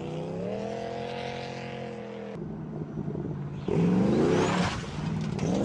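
Engine-swapped car's engine revving through its exhaust. It climbs and holds for about two seconds, cuts off abruptly, then blips up twice in short revs near the end.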